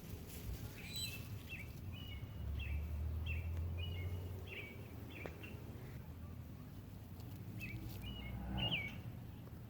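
A songbird calling outdoors: short repeated slurred notes at about two a second, in one long run and then a shorter one near the end, over a low steady background rumble.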